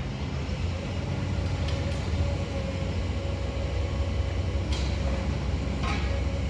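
Demolition machinery engine running steadily: a low rumble with a faint steady whine, and a few faint clicks.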